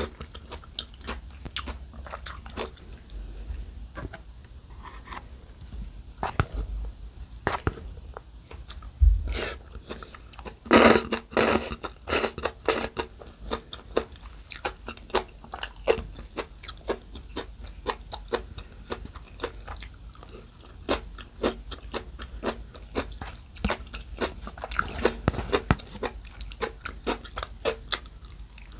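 Close-miked eating: repeated chewing and crunching of bibim noodles with crisp bean sprouts and young radish, in many short, sharp clicks. There is a louder, denser stretch of mouth noise about eleven seconds in.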